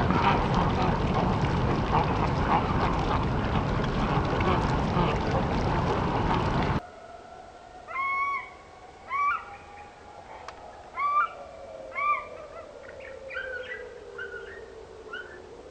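Loud, dense chatter for the first seven seconds, which cuts off abruptly. Then come a run of short, flat-pitched bird calls, several per second at first and then scattered, over a faint steady tone that slides slowly down and back up.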